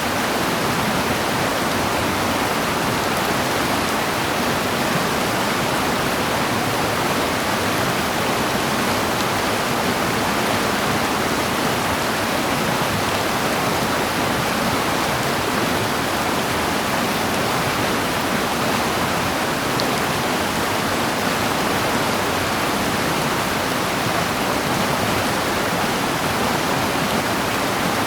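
Steady rush of fast-flowing water, an even noise that holds the same level throughout.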